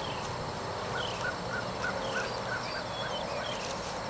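Birds calling: a run of about six short, even notes at roughly three a second, with higher falling chirps, over a steady insect trill.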